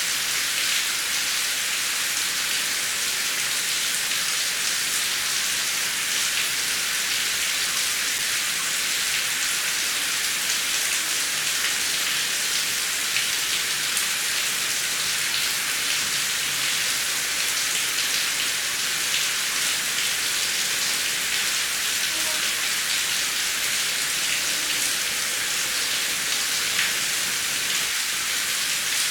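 Heavy rain falling steadily: a dense, even hiss of rain on surfaces, with scattered individual drop ticks.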